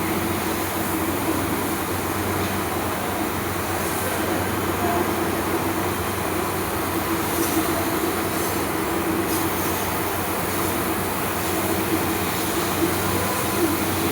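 CNC laser cutting machine running: a steady mechanical hum with a constant drone, and a few faint short hisses now and then.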